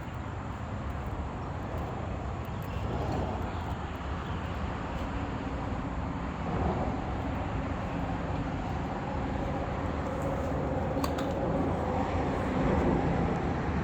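A motor running steadily: a low hum with a broad rumble over it, growing a little louder in the last few seconds.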